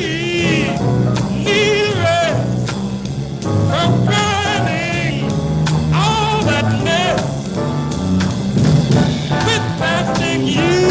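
Jazz song: a singer holding notes with wide vibrato over a swinging band.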